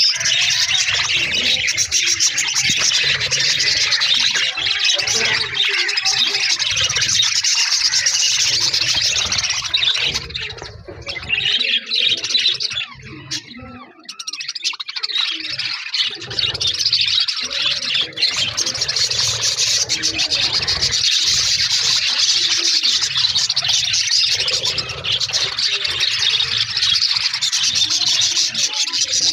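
A flock of budgerigars chattering and chirping continuously, with a brief lull about halfway through.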